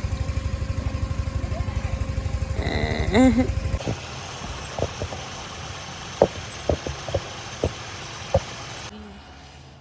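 A vehicle engine idling close by with a fast, even low throb, and a short call that rises and falls in pitch near its end. After a cut about four seconds in, the engine is gone and a few sharp knocks sound.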